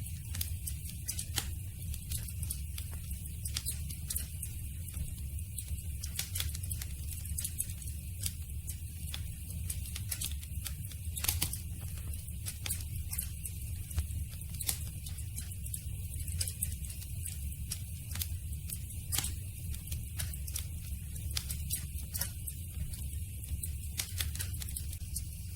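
Campfire crackling: frequent irregular sharp pops and snaps of burning wood over a steady low rumble of the fire.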